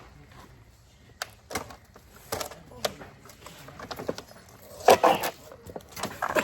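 A child car seat being handled and moved, its buckles and plastic parts clicking and knocking in scattered bursts, the loudest cluster about five seconds in.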